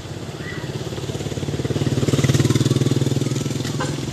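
Tricycle's motorcycle engine running with a steady beat, swelling louder about two seconds in and then easing back.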